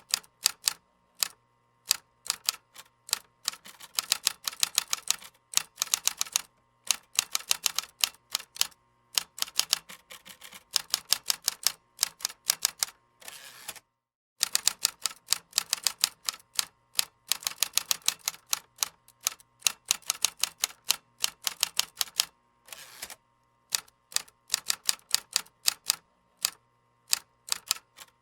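Computer keyboard typing: quick runs of key clicks in bursts, with short pauses between them and a brief silent break about halfway through.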